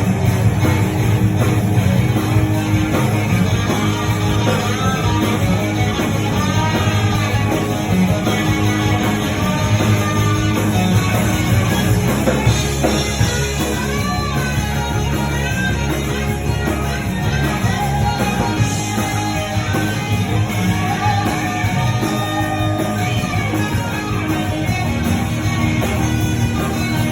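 Live rock and roll band playing, with guitar to the fore over a steady, full low end.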